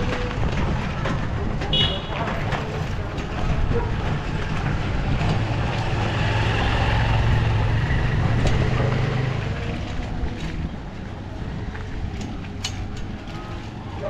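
Street traffic: motor vehicles running, with one engine's low hum growing louder for a few seconds in the middle before fading.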